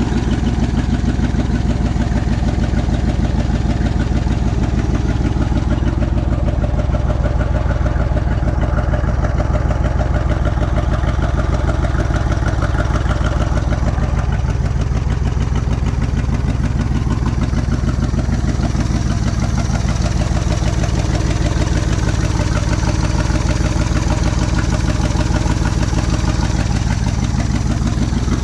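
1967 Ford F100's FE big-block V8 idling steadily with an even pulse, missing on one cylinder, which the owner puts down to low compression from a stuck-open intake or exhaust valve or worn piston rings.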